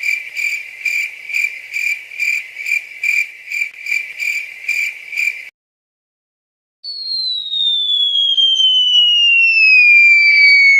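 Comedy sound effects: a cricket chirping in an even, rapid rhythm of about two and a half chirps a second, which stops about five seconds in. After a short gap comes a long whistle sliding steadily down in pitch.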